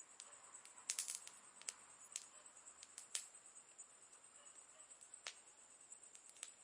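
Campfire crackling: sparse, quiet pops and snaps of burning wood, with a quick flurry of them about a second in, over a steady high hiss.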